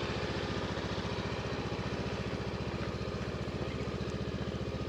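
Honda CB500X's parallel-twin engine idling steadily with an even, regular pulse.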